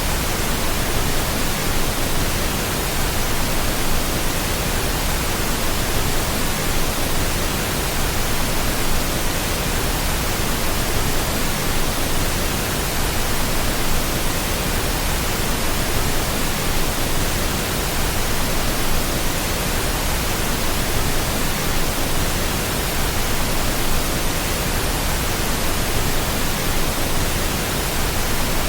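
Steady pink noise: an even, unchanging hiss across the whole range, played as a baby sleep aid.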